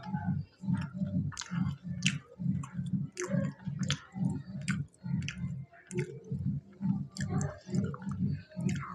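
A man chewing a mouthful of food close to a lapel microphone, in a steady rhythm of wet, crunchy chews with sharp clicks.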